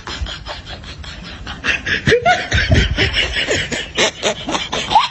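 Laughter, in short repeated bursts, louder from about two seconds in.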